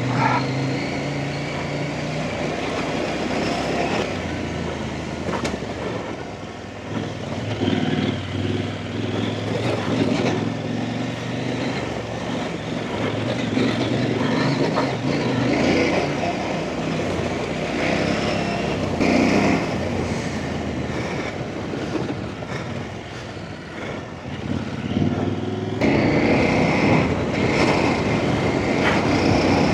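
Off-road trail motorcycle engine running and revving up and down as it rides, with steady wind and riding noise over it. The sound gets louder about three-quarters of the way through.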